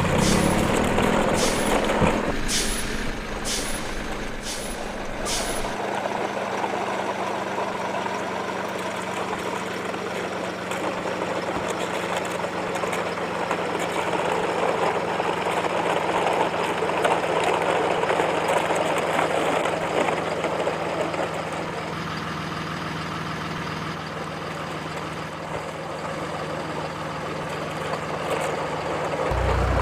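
A steady engine running, with about seven sharp clicks in the first five seconds.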